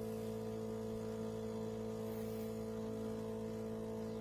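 De'Longhi Rivelia espresso machine's pump humming steadily as it dispenses an extra shot of coffee into the cup.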